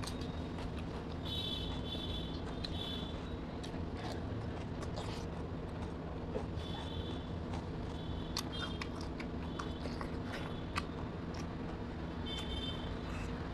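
Close-up eating sounds: crisp cucumber being bitten and chewed, with scattered wet clicks as rice and greens are eaten by hand. Under them runs a steady low background noise, with short high-pitched sounds now and then.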